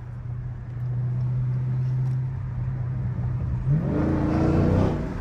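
Car engine running with a steady low drone, then revving up about three and a half seconds in and easing back near the end.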